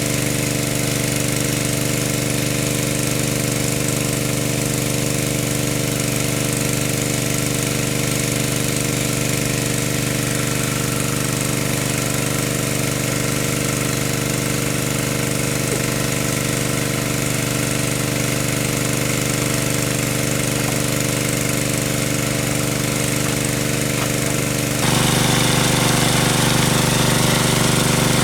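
A small engine running steadily with a rapid knocking beat. Near the end its sound changes abruptly and gets a little louder.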